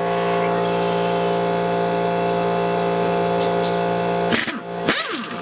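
Steady machine hum from a running motor, with a strong low tone and many overtones, held at a constant pitch; a few brief louder clatters come near the end.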